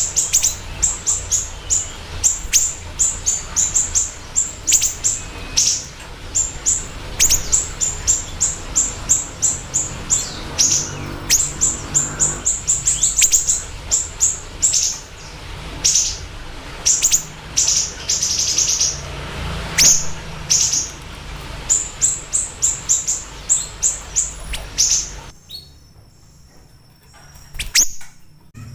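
Siri-siri songbird calling: rapid runs of short, sharp, high chirps, several a second with brief pauses, over a low hum. The calling stops about 25 seconds in.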